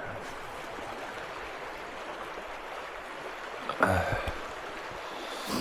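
A creek running past, a steady rush of water. About four seconds in a brief louder knock cuts through it.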